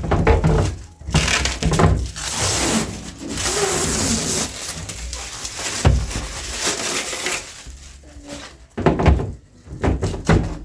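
Handling noise: irregular crackling and rustling with a few sharp knocks.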